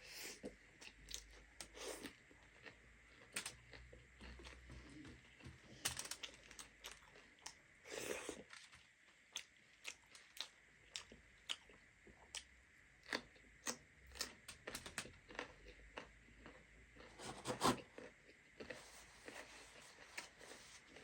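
A person chewing and crunching food close to the microphone: scattered short crunches and mouth clicks with brief quiet gaps between them.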